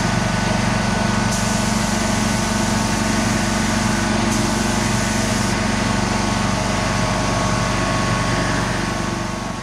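A motor-driven machine running steadily: an even hum with a couple of thin whining tones above it, fading out at the end.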